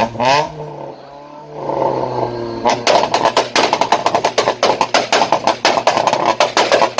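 Car engine revving: a rising rev around the start, then a quick series of sharp pops and crackles over the held engine note for the last four seconds.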